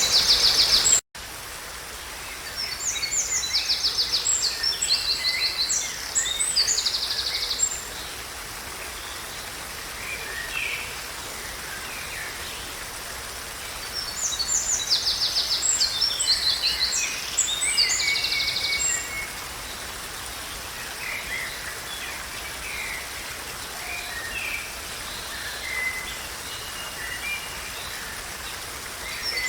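Songbirds singing in two spells of fast, high trilled phrases with scattered single calls between, over a steady hiss. The sound drops out briefly about a second in.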